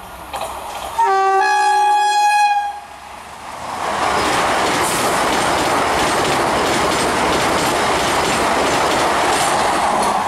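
A train horn sounds once, about a second in, for nearly two seconds. Then a train passes at high speed, its wheels on the rails making a loud, steady noise.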